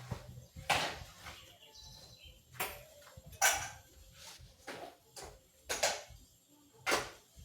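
Kitchen clatter: about five sharp clacks and knocks, spaced a second or so apart, of containers and utensils being handled and set down.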